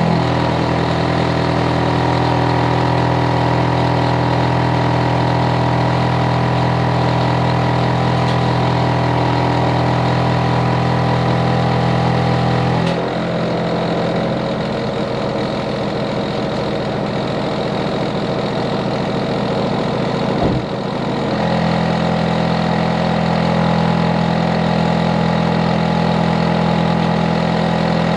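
Hitachi air conditioner outdoor unit running with a loud, steady, multi-tone hum. About halfway through, the low hum drops away for several seconds, then returns after a brief pitch sweep, as the compressor and fan change speed.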